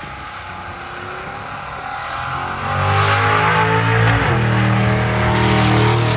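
Drag car engine at full throttle, its pitch climbing as it gets louder, then dropping sharply about four seconds in and holding steady.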